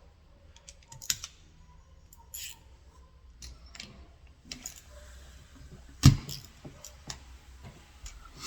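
Scattered clicks and clinks of hand tools and metal parts being handled on a workbench, with one sharp knock about six seconds in.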